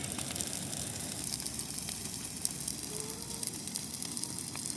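Big bonfire of dry Christmas trees burning: a steady hiss full of small, sharp crackles and pops.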